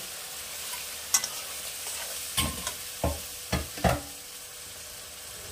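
Onion and yogurt-spice masala sizzling in a metal kadai, with a metal spatula stirring and knocking against the pan about five times between one and four seconds in.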